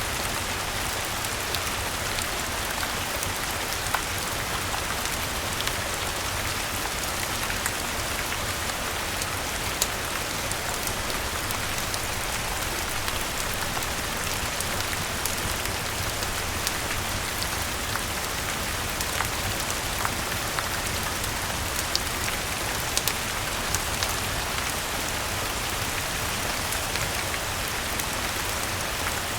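Steady rain falling on garden foliage: a dense, even hiss with scattered sharp ticks.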